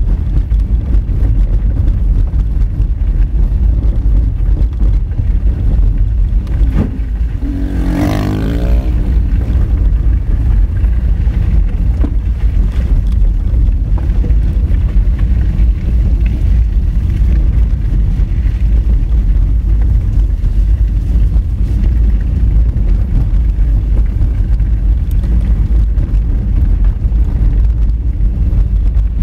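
Honda Fit hatchback driving on a rough gravel dirt road: a steady heavy low rumble of tyres on loose stones and the running engine. About eight seconds in, a short pitched sound sweeps up and back down over the rumble.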